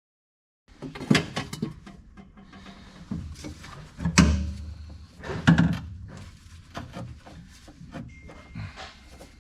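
After a moment of silence, irregular metal clanks and knocks of hand tools being handled and struck on tractor transmission parts. The loudest knocks come about a second in and again around four and five and a half seconds in.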